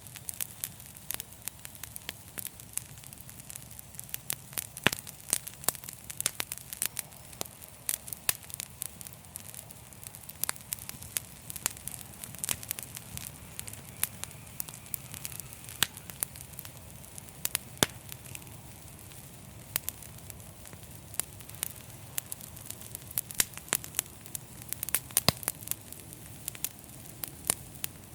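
Log fire in a fireplace crackling, with frequent irregular sharp pops and snaps over a steady low rumble of the flames.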